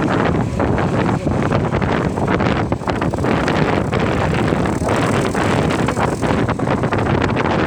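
Loud, steady wind buffeting the microphone, with a rumbling low end that rises and falls.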